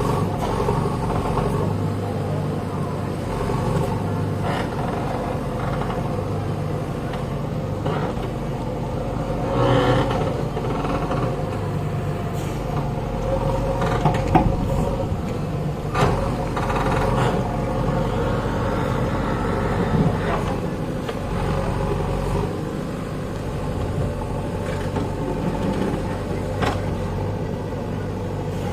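JCB backhoe loader's diesel engine running steadily, with a few sharp metallic knocks.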